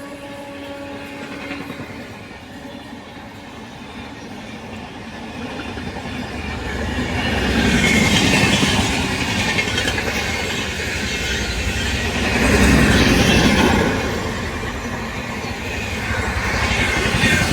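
Indian Railways train running through at speed, its wheels clattering over the rail joints with a rushing noise that swells around 8 and 13 seconds in. The tail of a horn fades out in the first second.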